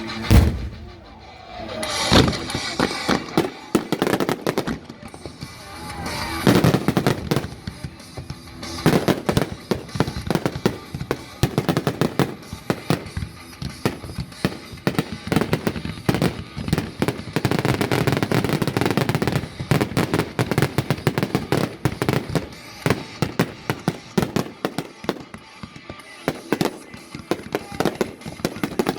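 Fireworks going off in a dense barrage: a loud bang just after the start, then rapid, nearly continuous shots and crackling.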